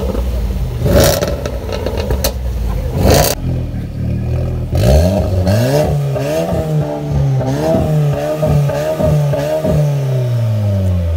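Performance car engines revved hard in place. First a few loud exhaust cracks over the engine, then an engine blipped rapidly over and over, about one and a half revs a second, each rising and falling in pitch, until the last rev drops away near the end.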